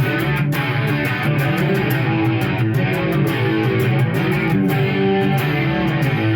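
Electric guitar played through a Marshall MG100HFX amp on its crunch channel, a driven rock riff with steady picked notes.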